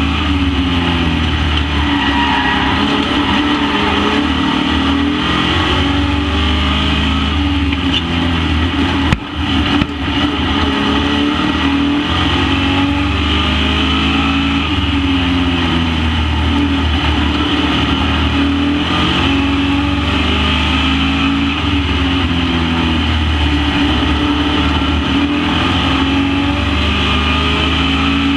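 Super Pro race trucks running laps together, their engines rising and falling in pitch as they accelerate out of the turns and lift going in, over and over. A short knock sounds about nine seconds in.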